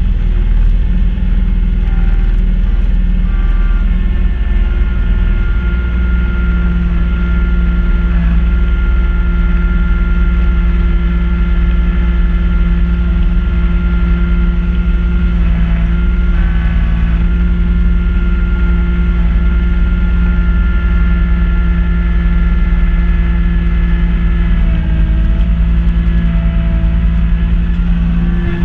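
Kubota B2650 tractor's three-cylinder diesel engine running steadily while driving a front-mount snowblower. The engine note shifts briefly about halfway through and again near the end.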